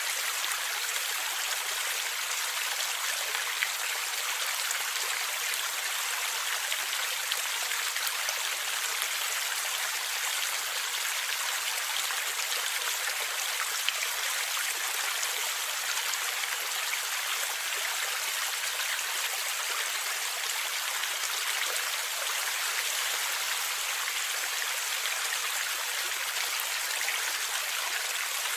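A stream or small river flowing and gurgling over rocks, a steady rushing hiss with small splashes and drips.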